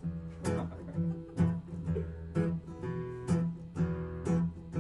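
Acoustic guitar strummed in a steady rhythm, about two strums a second, over sustained low notes: the instrumental intro of a song before the singing comes in.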